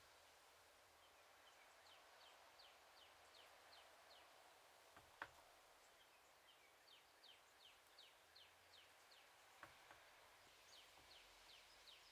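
Near silence in which a bird sings faintly, in runs of short falling high notes, several a second. A hand finishing tool makes a soft tap about five seconds in and another near ten seconds in.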